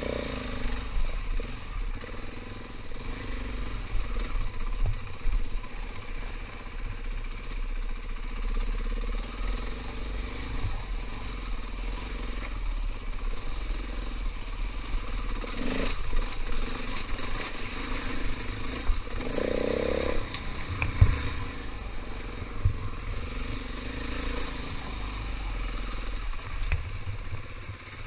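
KTM 500 EXC single-cylinder four-stroke dirt bike engine running at low, varying revs while riding off-road, with a few sharp knocks and clatter from the bike.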